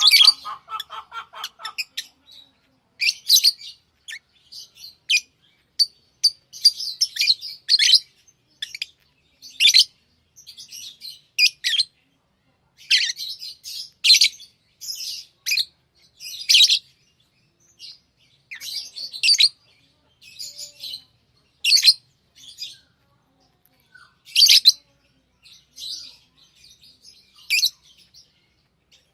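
Pet lovebirds chirping: short, shrill, high chirps coming in irregular bursts about every second or two. In the first two seconds a quicker, lower pulsing chatter runs under them.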